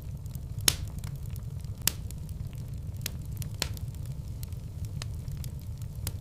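Wood fire burning in a fireplace: a steady low rumble with scattered sharp crackles and pops, two louder pops about a second apart near the start.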